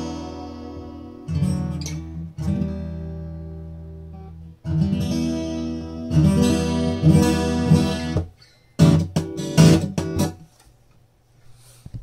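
Acoustic guitar strummed, each chord left to ring and fade before the next. There are quicker strokes about nine to ten seconds in, then it stops.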